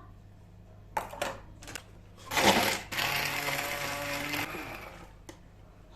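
A few clicks, then a small electric motor starts with a burst and runs steadily for about two seconds before winding down.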